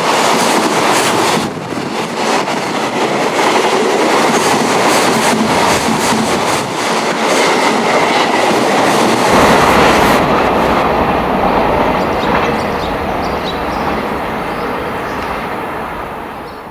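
A train running along the track, its wheels clattering over the rail joints. The sound fades away near the end.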